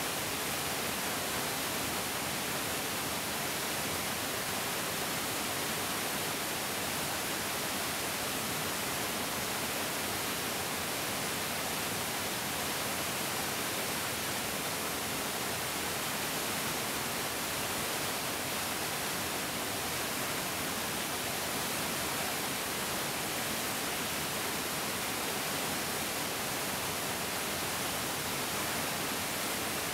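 Mountain stream rushing over rocks: a steady, even hiss of flowing water with no change.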